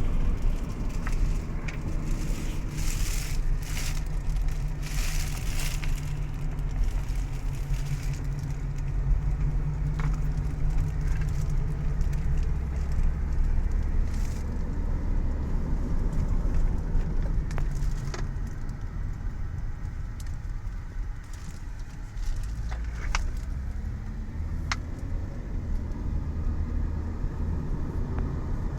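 A car driving: steady engine and road rumble, its engine note shifting a few times.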